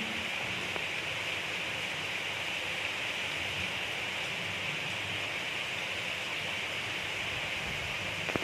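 Gentle, steady rain falling, an even hiss with no thunder.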